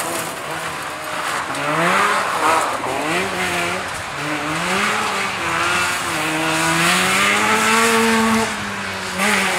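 Trabant 601 rally car's two-stroke twin engine revving hard under acceleration. Its pitch climbs and drops back several times with gear changes, then holds high for a few seconds before falling near the end.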